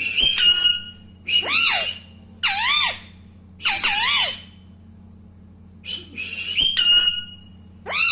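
Alexandrine parrot calling: about six short, loud, whistly calls that swoop down and back up in pitch, with short pauses between them and a longer gap in the middle.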